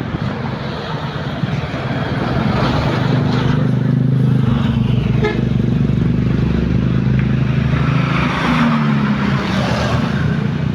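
Heavy truck engine running steadily, louder from about two seconds in, with a slight dip in pitch near the end.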